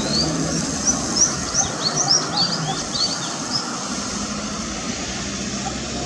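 A quick series of short, high bird chirps in the first half, over a steady low engine hum.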